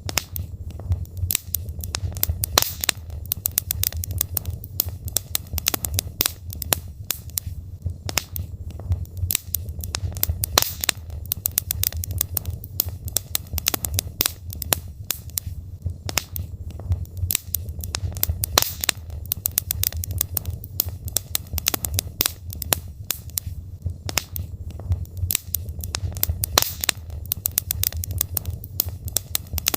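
Logs burning in a fireplace, crackling with many irregular pops and snaps over a steady low rumble of the fire.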